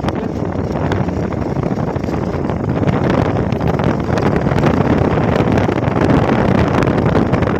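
Wind rushing over the microphone of a moving Hero XPulse motorcycle, with the bike's running noise underneath. It gets a little louder about three seconds in.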